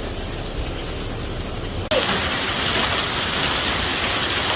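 Heavy thunderstorm rain with hail coming down, a steady hiss that jumps suddenly louder and brighter about two seconds in.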